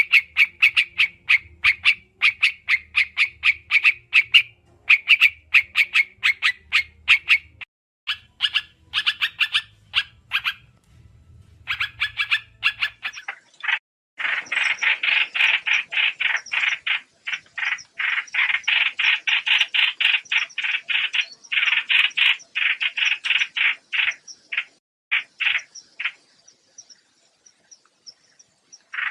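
White-eye calls used as a trapping lure: fast runs of short, high chirping notes in bursts with short gaps, becoming a dense, continuous chatter about halfway through.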